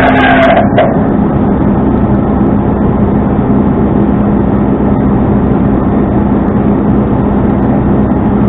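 Tow truck engine running steadily with a low drone. A whining tone from it drops in pitch and fades under a second in.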